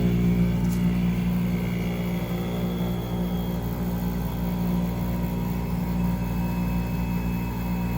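A 1983 Whirlpool heat pump running with a steady, strong electrical-machine hum, the kind of hum a compressor gives. The hum eases a little over the first couple of seconds and then holds steady.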